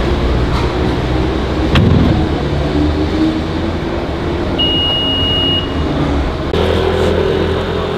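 Car engines running in slow street traffic, with a sharp knock about two seconds in and a single high electronic beep lasting about a second midway. Near the end a second engine note comes in louder.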